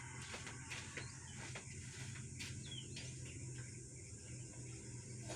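Quiet workshop background: a steady low hum with scattered light clicks, and a short high chirp falling in pitch about three seconds in.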